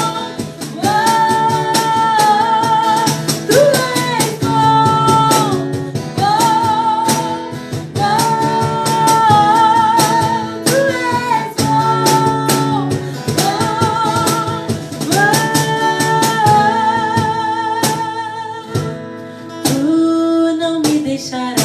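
Worship song: a voice holds long, wavering notes in phrases of about two seconds over steadily strummed guitar.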